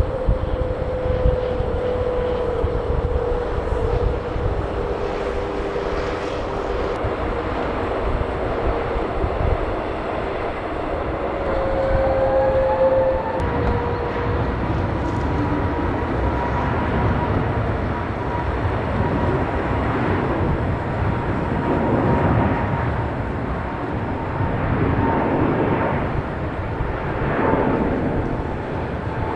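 Jet airliner engines at takeoff power: a steady rumble with a whine whose pitch rises about a third of the way in.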